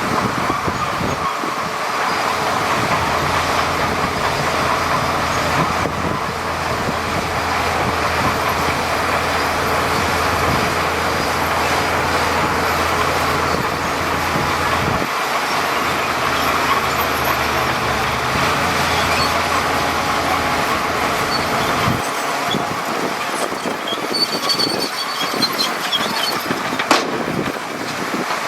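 Heavy diesel earthmoving machinery running steadily, with a deep engine hum and a broad rumble of working noise. The low engine note drops away about three-quarters of the way through, and there is a single sharp click near the end.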